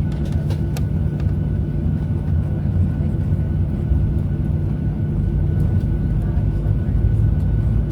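Cabin noise of a Boeing 737-700 with its engines running: a steady low rumble with a thin constant whine over it, and a few light clicks about a second in.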